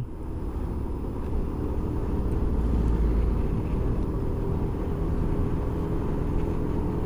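Motorcycle engine pulling under load on an uphill climb, with wind and road rumble on the rider's microphone; the sound builds over the first few seconds, then holds steady.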